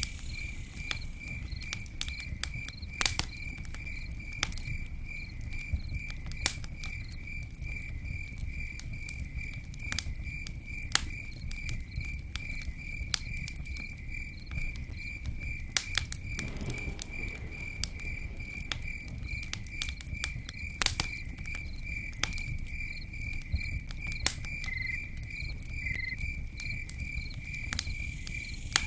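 Campfire crackling, with sharp irregular pops from the burning wood over a low, steady rumble. Crickets chirp in an even, unbroken rhythm throughout.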